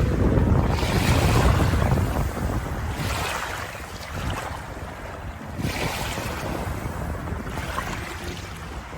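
Sea waves breaking and washing in, the rush of water rising and falling in swells every few seconds, with a deep rumble in the first couple of seconds.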